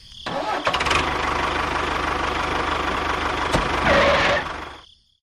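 An engine running steadily with a knocking rattle, dying away just before the end.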